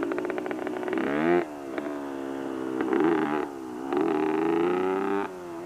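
Motorcycle engine running under a learning rider, its pitch climbing and then dropping sharply about a second and a half in, climbing again in the middle and dropping near the end: revving up through the gears, with shifts such as into second.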